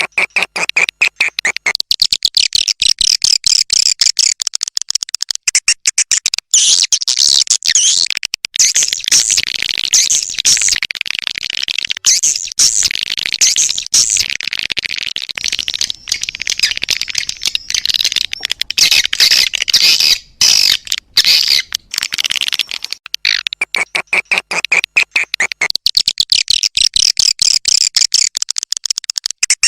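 Edible-nest swiftlets calling: a dense, fast chatter of twittering and clicking calls with brief breaks now and then. It is a swiftlet lure call recording, the kind played in a swiftlet house to draw swiftlets in to roost.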